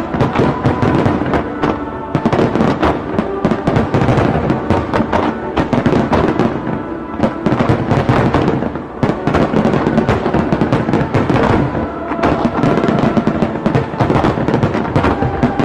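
Fireworks display in a dense barrage, many bangs and crackles a second with no break, with music playing along.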